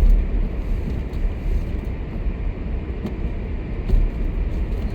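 Car driving slowly on a snow-covered road, heard from inside the cabin: a steady low rumble of engine and tyres, with a few faint clicks.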